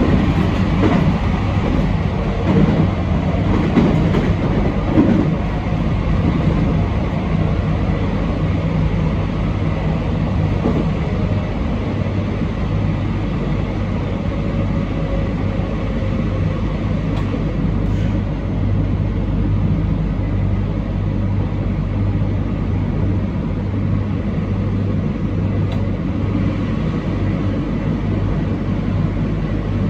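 Train running along the line, heard from inside the front car: a steady rumble and hum of wheels on rail and running gear, a little rougher in the first few seconds.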